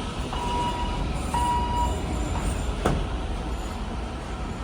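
Low steady rumble of idling diesel machinery. An electronic warning tone sounds twice in the first two seconds, the first about a second long and the second shorter, and there is a single sharp clank a little under three seconds in.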